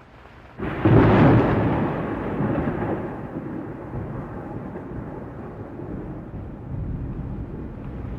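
A thunder clap: a sudden crack about half a second in, followed by a long rumble that slowly dies away.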